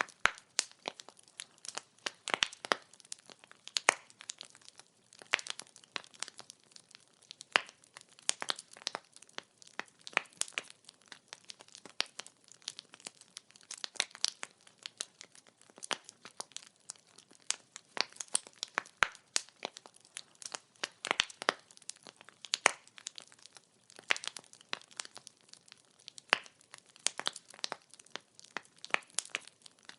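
Wood fire crackling: irregular sharp pops and snaps of burning firewood, many a second, over a faint steady hiss.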